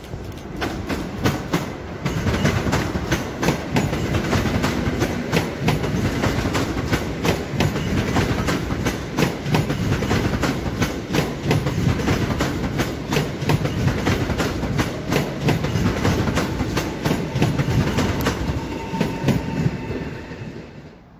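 PESA Dart ED161 electric multiple unit passing close by as it enters the station: a steady rumble with a rapid, regular clickety-clack of wheels over rail joints. The sound fades near the end as the last car goes by.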